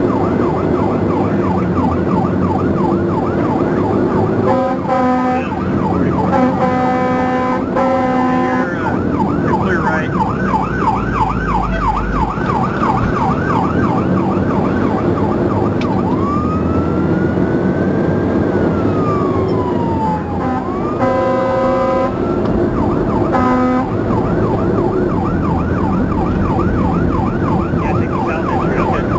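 Fire engine siren on a fast yelp, broken several times by blasts of the air horn; in the middle it slows to a single long wail that rises and falls. The truck's engine and road noise run steadily underneath.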